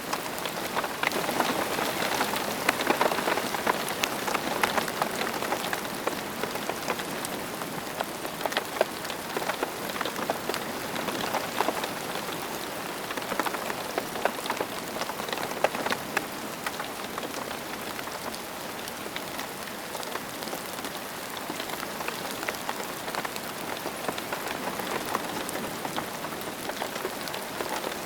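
Steady rain falling on a surface, a dense hiss with many individual drops pattering and ticking throughout.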